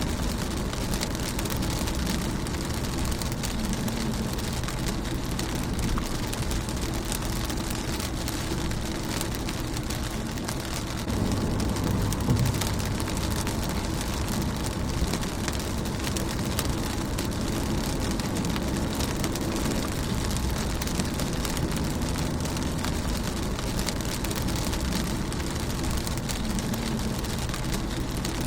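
Rain pattering steadily on a car's windshield, a dense spatter of small drop impacts over a low rumble. About eleven seconds in the low rumble swells louder for a couple of seconds.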